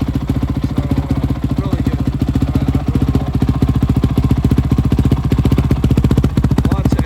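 2005 Honda CRF450's single-cylinder four-stroke engine idling steadily with a rapid, even firing beat, warming up just after being started from cold after months of sitting.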